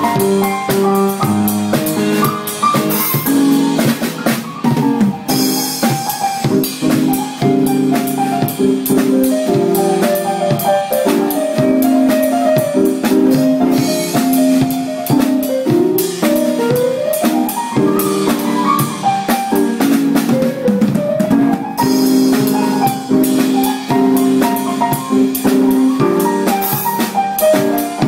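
Live instrumental trio of violin, keyboard and drum kit playing a melody over sustained keyboard chords and a steady drum beat, the melody gliding up and down in places.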